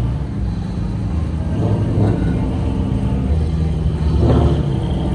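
Car engine running with a steady low rumble, swelling briefly about two seconds in and again near the end.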